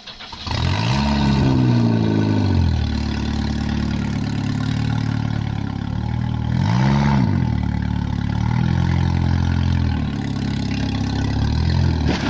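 A car engine revving up and dropping back as the car manoeuvres over rough ground: the revs climb about half a second in, and rise and fall again around seven seconds. Near the end there is a short knock as the car's rear bumps into the wrecked car.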